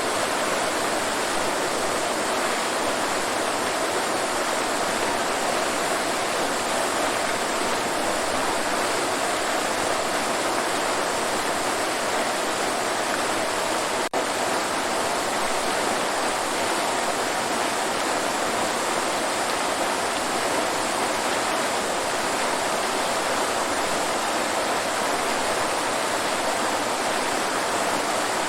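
Waterfall: water pouring and splashing in a steady, dense rush, with a split-second dropout about halfway through.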